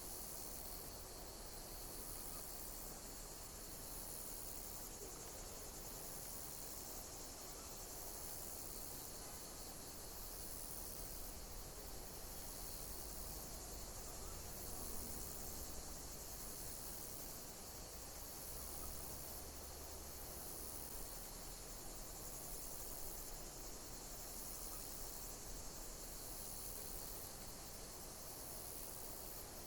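Insects chirping: a steady high trill with sharper high chirps repeating about every one to two seconds, over a faint low rumble.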